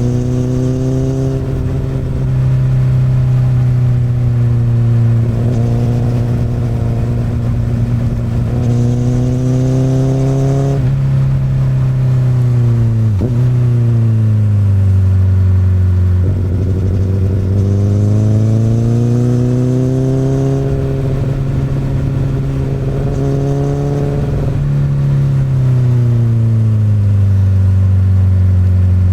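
Honda CBR1000RR's inline-four engine through an Akrapovic exhaust, riding under load. Its pitch climbs and falls in long waves, dropping sharply about halfway through and again near the end.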